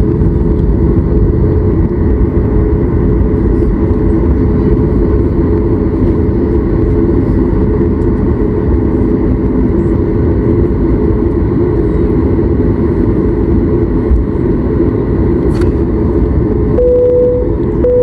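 Steady, loud rumble of a Boeing 737 MAX 8's cabin on the ground before takeoff, from the engines and air conditioning, heavy in the low end. Near the end come two short, steady mid-pitched tones.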